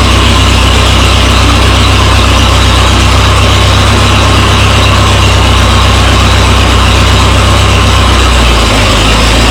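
Minneapolis Moline tractor engine being cranked over by its electric starter, running continuously without catching. The low drone shifts in pitch near the end. The owner later suspects a fuel problem, something plugging the carburetor jet.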